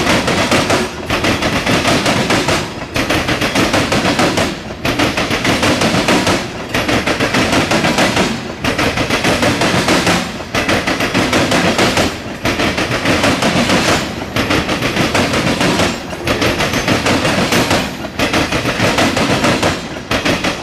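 Covered hopper cars of a Norfolk Southern grain train rolling past close by, their wheels clattering hard and fast over the rail crossing. The clatter dips briefly about every two seconds.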